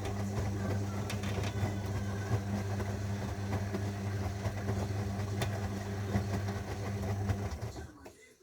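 Zanussi washing machine's motor running steadily with a low hum and small ticks, winding down and stopping about eight seconds in.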